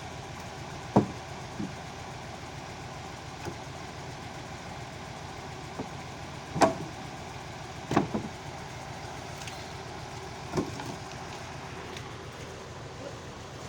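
Vintage army 4x4 truck running steadily, with about five sharp knocks, the loudest about halfway through.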